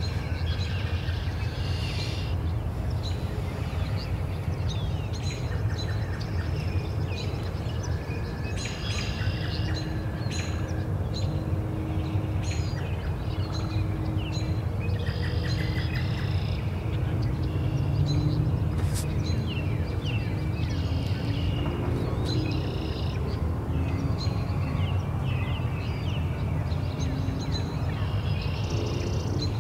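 Songbirds chirping and trilling on and off throughout, over a steady low rumble.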